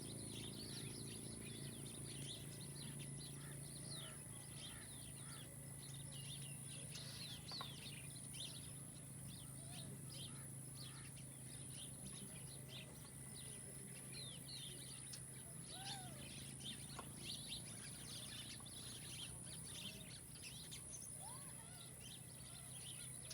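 Many small birds chirping and twittering in a dense, continuous chorus of short calls, over a steady high-pitched buzz and a faint low hum.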